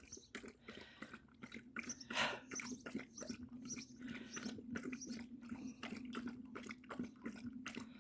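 Dog lapping water from a drinking bowl: a quick, irregular run of wet slurps and clicks, about three or four a second. A faint steady hum sits underneath from about three seconds in.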